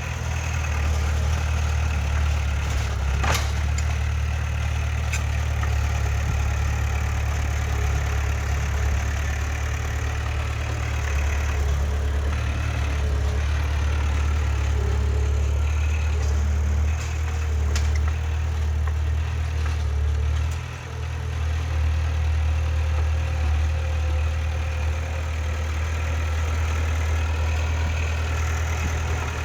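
Heavy diesel engine of earthmoving machinery running steadily with a deep drone, with a sharp click about three seconds in and a brief dip in level around twenty-one seconds.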